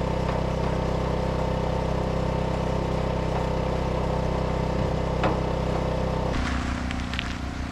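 Portable generator engine running steadily; about six seconds in its sound changes and drops slightly, with a beating low hum.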